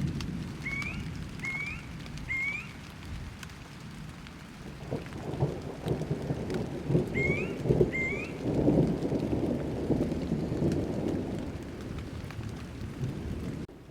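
Thunderstorm: steady rain with rolling thunder that builds again about five seconds in. Short rising chirps sound three times near the start and twice more about seven seconds in.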